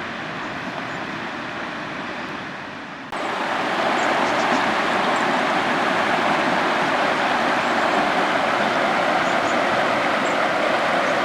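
Steady rushing noise that turns suddenly louder and brighter about three seconds in.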